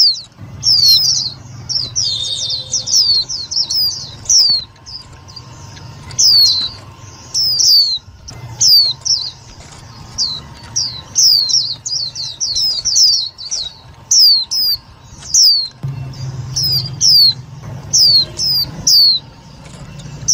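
Decoy white-eye calling: a long string of short, high notes, each dropping quickly in pitch, bunching into rapid chatter about two seconds in and again around the middle. A low hum runs underneath.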